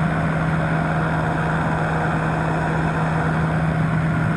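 Powered parachute's engine and propeller running steadily in flight at a constant pitch, with wind noise over it.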